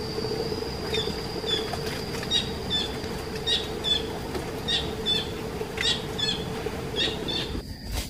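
Bird calling in short, sharp, slightly falling chirps, repeated in small groups of two or three, over a steady low hum.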